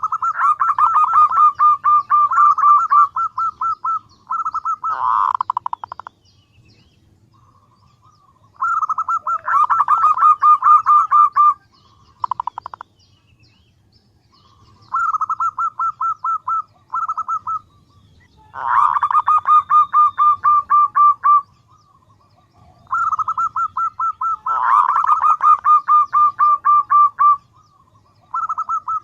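Female zebra dove (perkutut) calling, the call used as a lure for males: repeated bouts of rapid, evenly spaced cooing notes, each bout lasting a few seconds with short pauses between.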